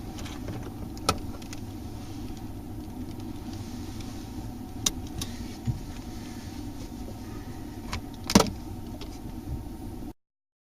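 Steady low road and engine rumble of a car driving, heard from inside the cabin, with a few sharp clicks or knocks; the loudest comes a little over eight seconds in. The sound cuts off abruptly near the end.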